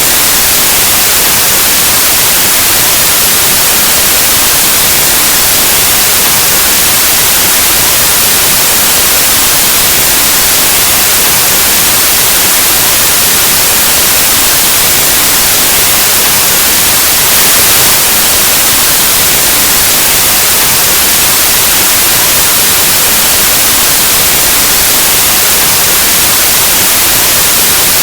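Loud, steady white noise: a continuous, even hiss of static across the whole range of hearing, like an analog television tuned to no station.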